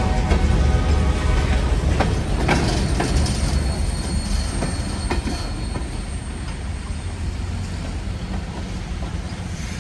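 Freight cars of a slow-moving train rolling past: a deep rumble with wheels squealing at first and a few sharp clacks over the rail joints, getting quieter in the second half.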